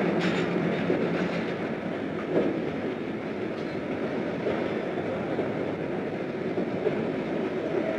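A passenger train of railway coaches rolling past, a steady rumble of wheels on track with a few separate clacks over rail joints.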